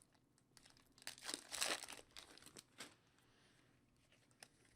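Trading-card pack wrapper crinkling and tearing as it is opened, loudest about a second in, followed by a few light clicks of card handling.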